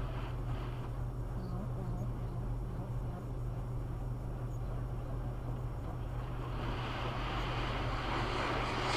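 Car wash running: a steady low hum, with a rushing hiss of water spray that grows much louder from about six and a half seconds in.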